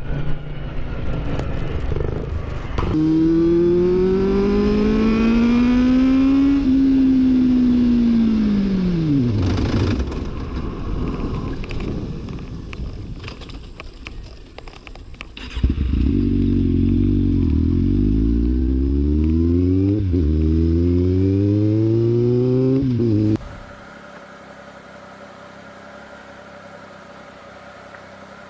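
Motorcycle engine revving up and then winding down, its pitch rising and then falling. Later it accelerates hard again with a gear change partway through, then cuts off abruptly, leaving a low steady hum.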